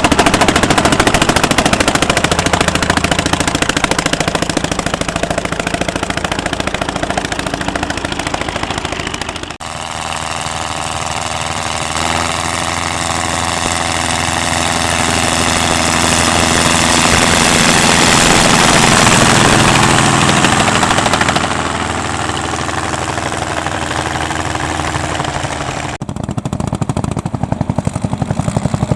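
Vintage tractor engines running under load while ploughing, with a rapid, hard-pulsing exhaust beat. The sound changes abruptly to a different engine about ten seconds in and again near the end.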